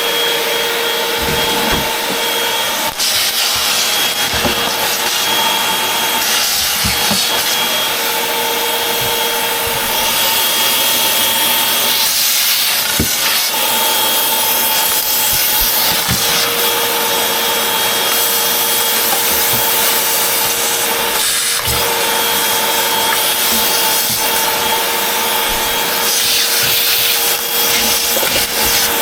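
Upright vacuum cleaner running continuously: a steady motor whine over rushing air, with the brushroll rubbing across the floor. The whine wavers in and out as the vacuum is pushed back and forth, and a few light knocks come through.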